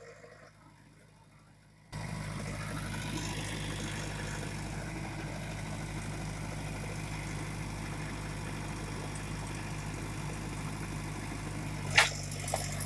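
JCB digger's diesel engine running steadily at low revs, coming in suddenly about two seconds in. A sharp knock near the end, followed by clattering.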